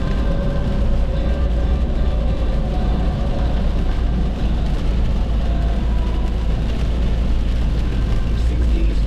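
Steady road and engine noise of a car driving at highway speed: a continuous low rumble of tyres and engine.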